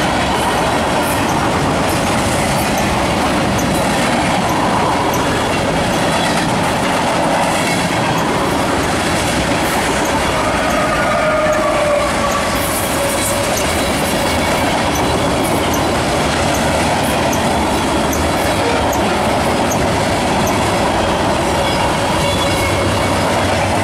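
Freight cars rolling past at close range: a steady rumble of steel wheels on rail with clicking over the rail joints. A brief squealing tone comes around the middle, as a mid-train diesel locomotive goes by.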